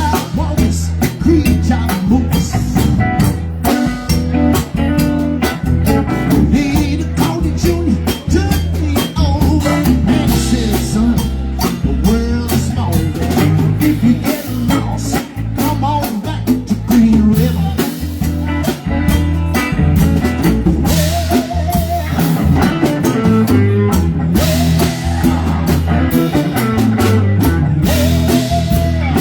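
Live band playing a blues-rock number, with guitar and drum kit to the fore.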